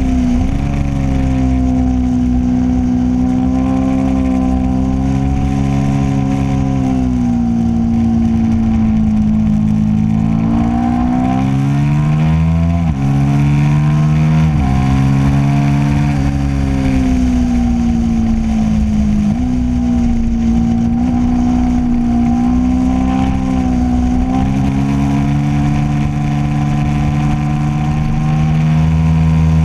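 Onboard motorcycle engine running hard at high revs on track. Its pitch dips and climbs again about ten seconds in, then drops sharply a few times, near twelve and thirteen seconds and again around nineteen seconds, as gears are changed.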